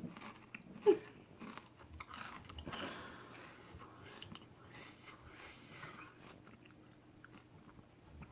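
A person biting and chewing a crunchy kettle-cooked potato chip, with irregular crunches that thin out towards the end.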